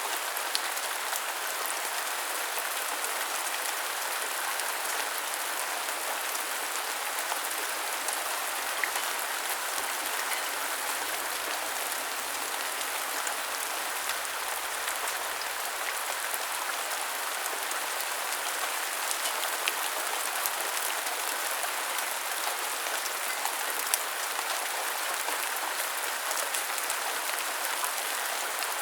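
Steady rain falling on hard surfaces, an even hiss with scattered sharper drips and patters.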